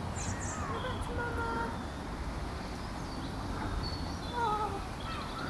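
Outdoor ambience: a steady low rumble with scattered short, distant bird calls.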